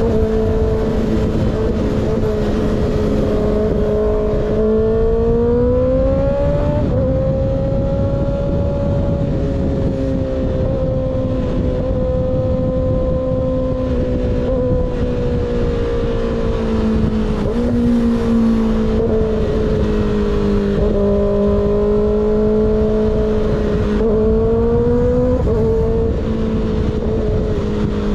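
Sport motorcycle engine with an unbaffled slip-on exhaust running steadily at cruising revs, its pitch climbing gently about five seconds in, sagging through the middle and rising again in the second half, under heavy wind rush on the microphone.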